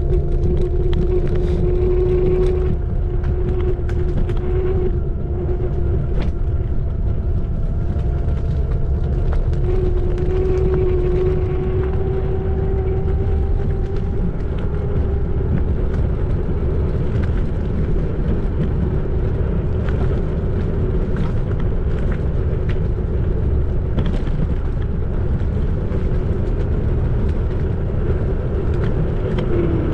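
Xiaomi Electric Scooter 4 Pro's electric motor giving a steady whine while riding, over a constant low rumble of wind and road. The whine drops in pitch near the end.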